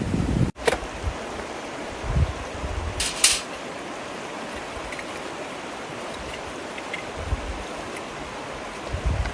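Steady rushing of running water, with a couple of sharp ticks about three seconds in. The sound cuts out abruptly for an instant about half a second in.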